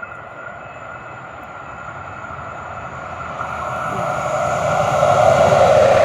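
Vehicle noise: a steady rushing that grows steadily louder, then cuts off abruptly at the very end.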